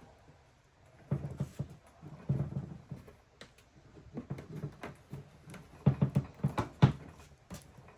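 Irregular knocks, taps and clicks of plastic headlight parts being handled, heaviest about a second in and again near the end.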